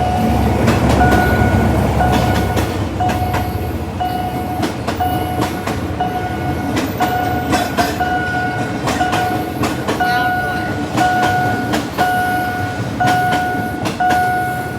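A train passing over a railroad crossing, its wheels clacking over the rail joints, while the crossing's warning signal sounds steady electronic tones, pulsing about once a second.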